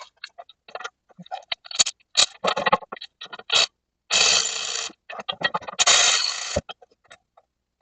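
Metal tools and parts clinking and knocking, with two longer scraping or rasping strokes of about a second each, about four and six seconds in.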